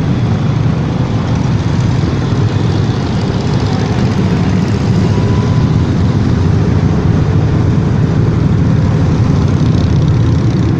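Motorcycle engines running steadily during a group ride, a constant loud low drone with no change.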